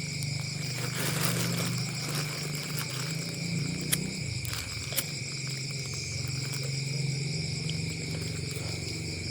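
Night insects such as crickets chirping steadily, over a low steady hum, with a couple of sharp clicks about four and five seconds in.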